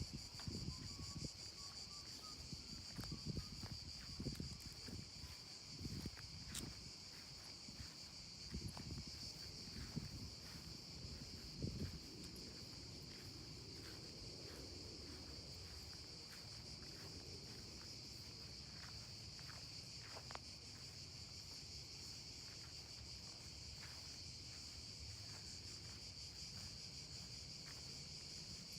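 A steady, high-pitched insect chorus buzzing without a break. Over it, during the first half, come irregular soft thuds of footsteps while walking.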